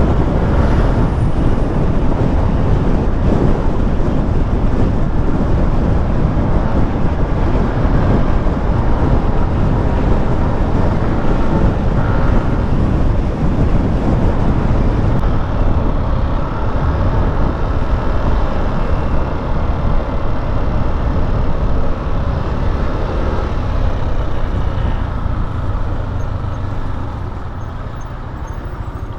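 Steady wind and road noise from riding a Yamaha Aerox 155 scooter at highway speed, with the scooter's engine running underneath. The noise eases a little near the end.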